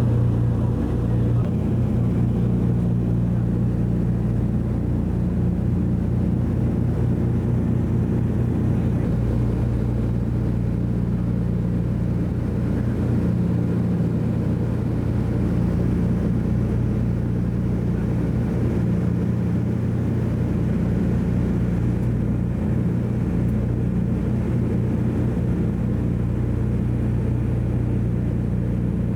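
Steady drone of a Douglas DC-3's twin radial piston engines in flight, heard inside the cabin; an even, unchanging low hum throughout.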